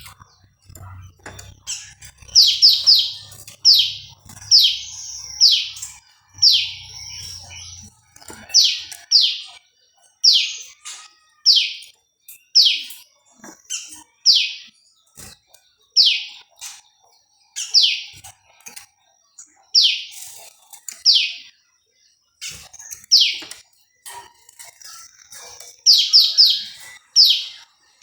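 Prenjak lumut, a small prinia-type songbird, calling: loud, sharp downward-sweeping chirps repeated every second or two, often in quick runs of two or three.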